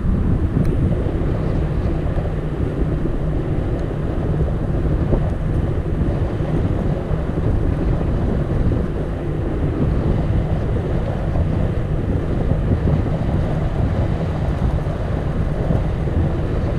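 Wind buffeting the microphone on a moving bicycle: a steady, loud low rumble.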